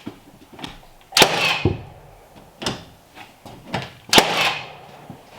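Hammer blows: two loud strikes about three seconds apart, each ringing briefly as it dies away, with a few lighter taps between them.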